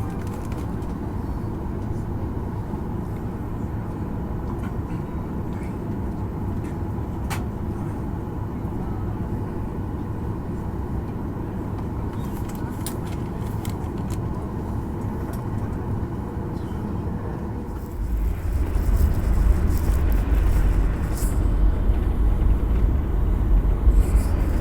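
Helicopter cabin noise: a steady engine and rotor rumble that gets clearly louder and deeper about eighteen seconds in, with a few faint clicks.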